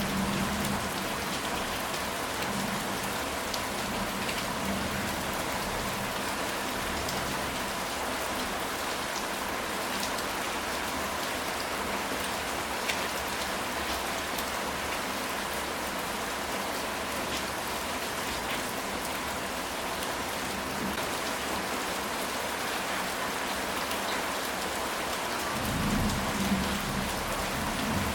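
Steady rain falling on a ceramic tile roof, a dense even patter of drops. A low rumble of thunder comes in near the end.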